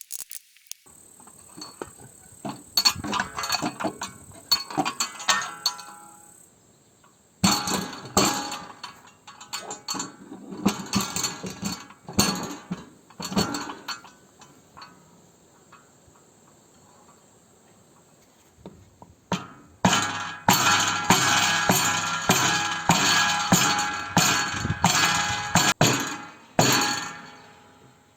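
Repeated hammer blows on metal, each ringing briefly, as new bearings are driven onto a mower deck spindle. The strikes come in scattered groups at first, pause, then fall quickly and steadily, about two or three a second, for the last several seconds.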